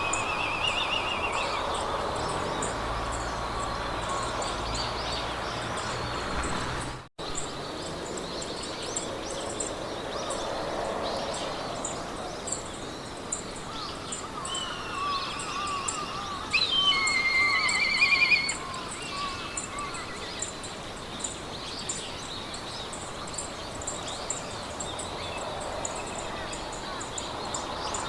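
Meadow ambience: wind through grass under songbirds singing, with one loud song phrase about two thirds of the way through, and a fast high ticking throughout. The sound cuts out for an instant about seven seconds in.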